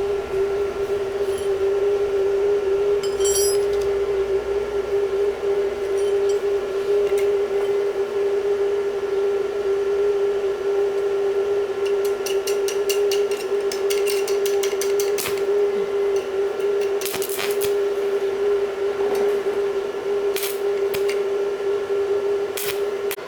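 A machine runs with a steady hum at one unchanging pitch, with scattered clicks and taps over it and a quick run of ticking about halfway through.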